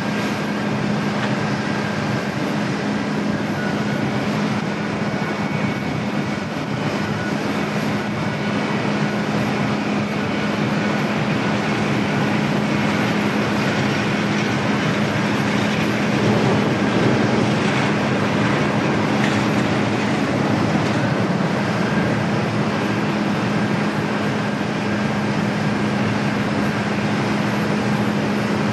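Jet airliner engines running, a steady loud rumble with a constant low hum and a faint high whine, swelling a little about halfway through.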